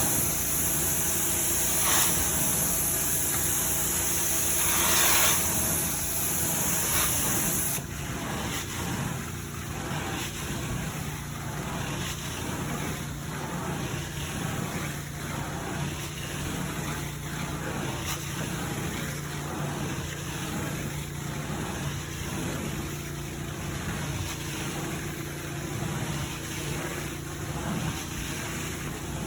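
Carpet cleaning machine running: a loud high suction hiss for about the first eight seconds, then the hiss drops away and leaves a steadier, lower machine hum.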